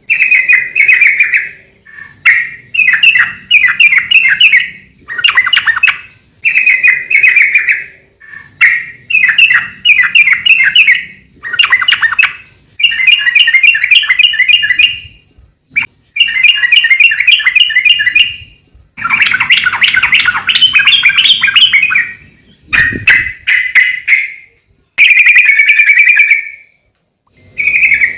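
Yellow-vented bulbul (trucukan) singing energetically: a series of about a dozen rapid, bubbly chattering phrases, each one to two seconds long with short pauses between.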